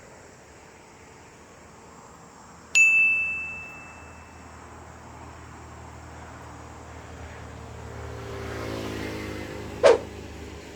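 A single clear metallic ding that rings on one high tone and fades over about a second. Later, an engine hum rises and fades, and a sharp click comes near the end.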